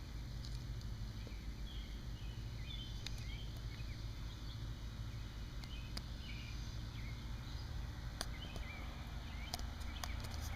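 Outdoor ambience: a steady low rumble of wind on the microphone, with short bird chirps scattered throughout and a few faint clicks.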